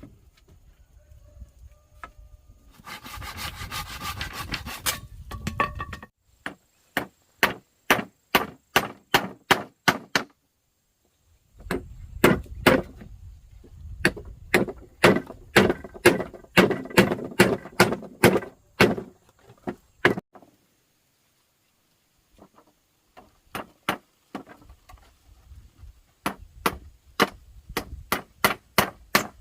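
Runs of sharp chopping strokes on wood, about two a second, with short pauses between runs. A few seconds in there is a stretch of scraping or rubbing.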